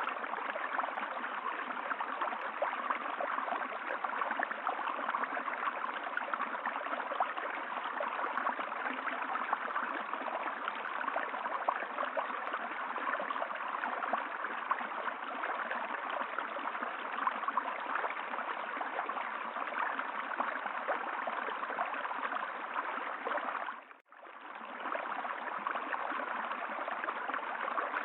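Steady rushing of running water, like a flowing stream. About 24 seconds in it briefly fades almost to nothing and comes back, like the join of a looped recording.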